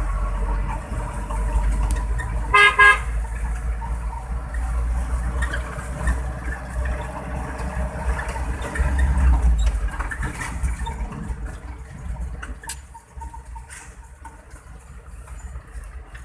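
A vehicle horn gives a short double toot about two and a half seconds in, over the low rumble of a running truck, which eases off in the last few seconds.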